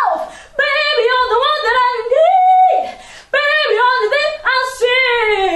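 A woman singing unaccompanied in long, held phrases with pitch slides between notes, breaking briefly twice for breath.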